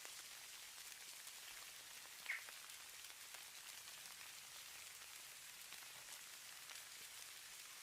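Snowfall ambience: a faint, steady pattering hiss of flakes landing, with one brief, louder high tick a little over two seconds in.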